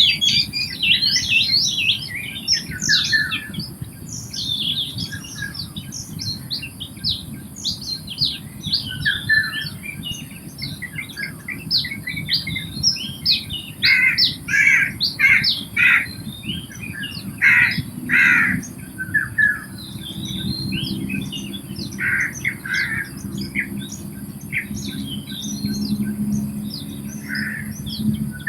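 A wetland bird chorus: many birds chirping and calling at once, with overlapping short notes. A run of louder, repeated calls comes about halfway through.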